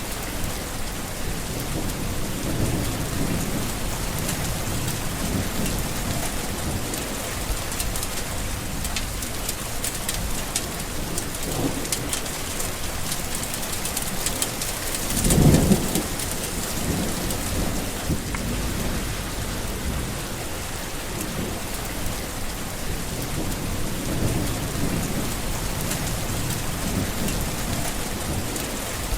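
Steady rain falling with rumbles of thunder, and a louder thunderclap about halfway through.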